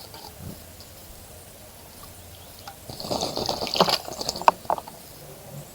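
A small bird bathing in a bird bath, beating its wings in the water: a quick flurry of splashing starts about three seconds in, lasts about two seconds and ends with a few sharp single splashes.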